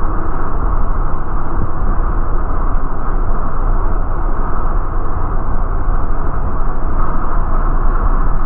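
Steady rumble of a city bus's engine and running gear, heard inside the moving bus.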